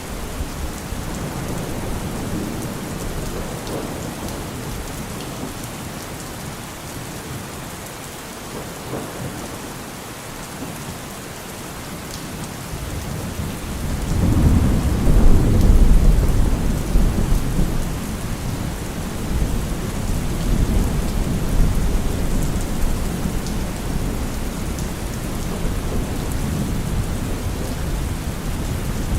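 Steady rain falling, with a roll of thunder rumbling in about halfway through, loudest a couple of seconds later, then fading back under the rain.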